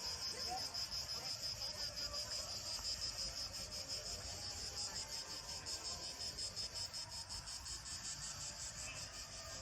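A dense chorus of night insects chirring steadily at a high pitch, with a fast even pulsing to it.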